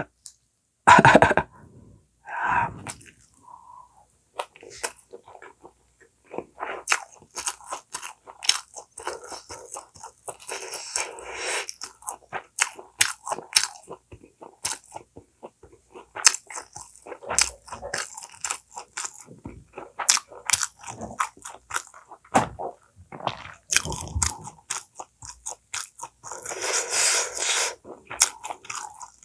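Close-miked sounds of a person chewing and biting food: many short, crunchy mouth sounds, with a louder, denser stretch of crunching near the end.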